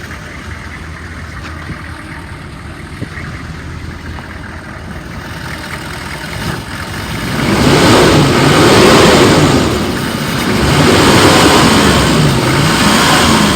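A 2002 Chevrolet 3500's 6.5-litre V8 diesel engine idling steadily, then revved twice from about halfway through, each rev rising and falling back. It revs up cleanly.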